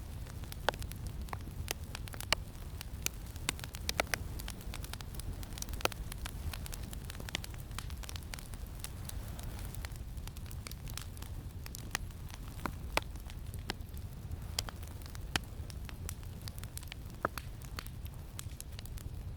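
Campfire crackling, with irregular sharp pops and snaps over a steady low rumble of wind.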